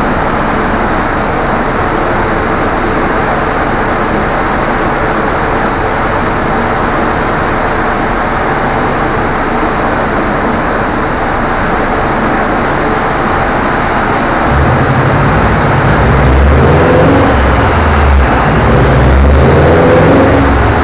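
A steady loud rushing noise throughout. About 14 seconds in, the low running note of a 1997 Subaru Impreza STI Version 3's turbocharged flat-four comes up and gets louder, its pitch shifting slowly, as the car turns its wheels on a rolling-road dyno.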